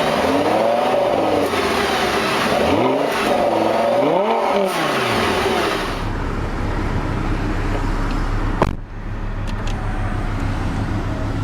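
Lamborghini Gallardo Superleggera's 5.2-litre V10 blipped twice, the revs climbing and dropping back each time, then settling to a steady idle. A single sharp click comes near the end.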